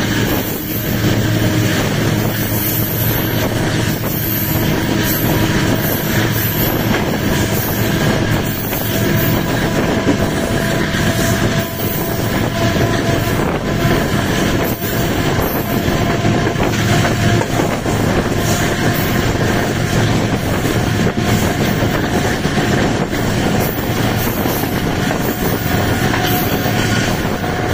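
Diesel-hauled passenger train running, heard from the open doorway of a coach: continuous rolling and rattling of wheels on the rails, steady in level.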